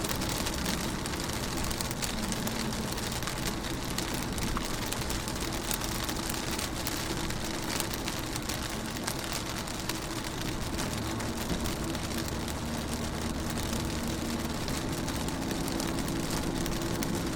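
Rain falling on a car window: many small drop ticks over a steady hiss, with a low steady hum underneath.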